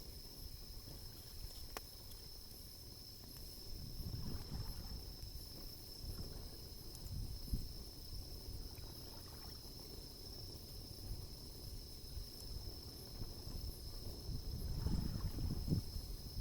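Bonfire burning with an occasional sharp crackle, under a steady high-pitched insect trill. Low rumbling swells in and out, loudest about four seconds in and again near the end.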